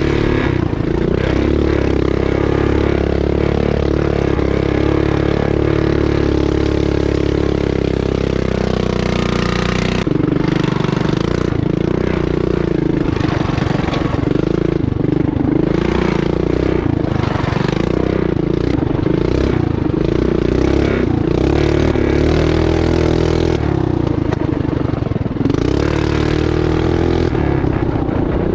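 Mini bike's small pull-start single-cylinder engine running hard, its pitch rising and falling with the throttle. From about a third of the way in, frequent knocks and rattles come through over the engine.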